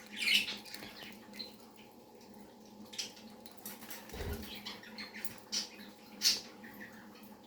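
A budgerigar making a scatter of short, high, scratchy sounds, a second or so apart, with a soft low thump about four seconds in.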